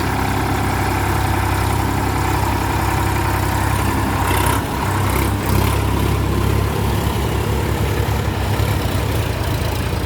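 Tractor diesel engine running steadily, with brief dips in level about four and a half and five and a half seconds in and a more throbbing low note in the second half.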